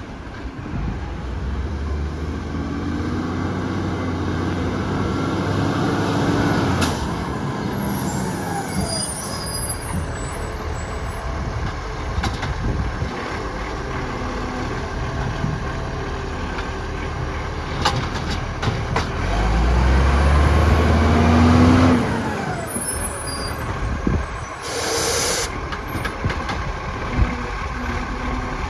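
Diesel garbage trucks pulling away, each engine building up in revs and then cutting off abruptly, twice. Air-brake hiss comes about 25 seconds in, along with short clicks.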